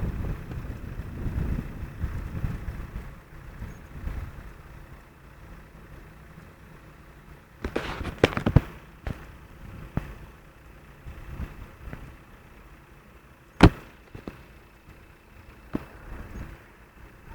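Storm wind buffeting the microphone as a low rumble that dies down after a few seconds, then a quick cluster of sharp cracks about eight seconds in and one loud crack near fourteen seconds.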